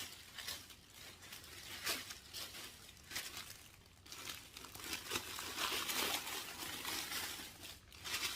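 Plastic and paper packaging crinkling and rustling as it is pulled open by hand, in irregular bursts that get busier and louder in the second half.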